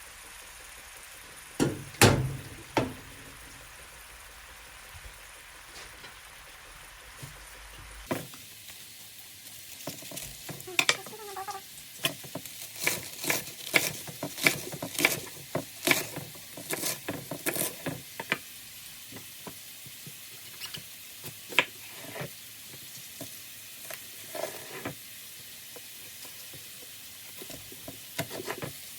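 Home cooking sounds: food sizzling in a pan under a soft hiss, with many sharp clicks and knocks of utensils against cookware, busiest in the middle.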